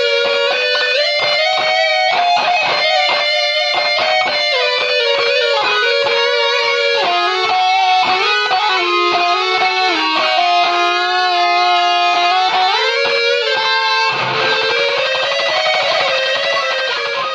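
Electric guitar lead played through an ART DST 8080 powered processor, its distorted preamp blended half and half with the effects and a pitch shifter adding a second, harmonised voice. It plays a melodic line of sustained notes with bends and ends on a long held note.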